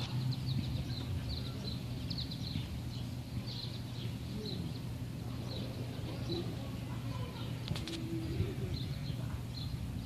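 Small birds chirping in short, repeated high notes, over a steady low hum. A brief low note sounds about eight seconds in.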